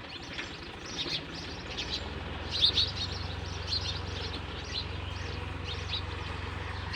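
Small birds chirping in many short calls, with a tractor engine's low steady rumble coming in about two seconds in.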